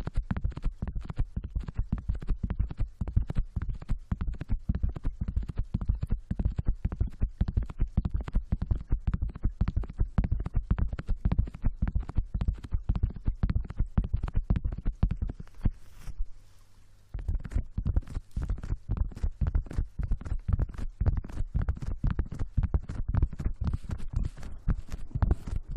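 ASMR hair-washing sounds close on the microphone: rapid, continuous scratching and rubbing strokes with a heavy low rumble, pausing briefly about two-thirds of the way through.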